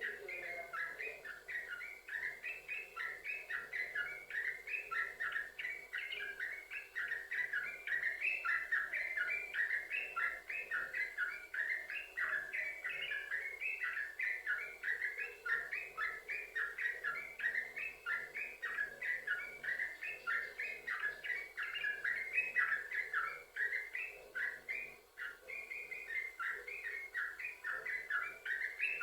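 Yellow-vented bulbul (trucukan) singing without pause, rapid chattering phrases joined one after another in a long continuous run.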